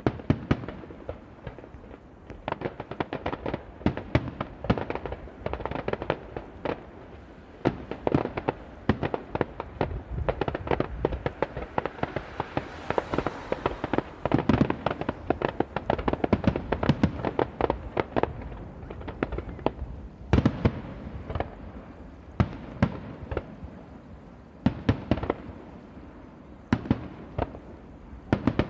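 Aerial firework shells bursting in quick succession, a dense run of bangs and crackles over a low rumble that thins out to separate single bangs near the end.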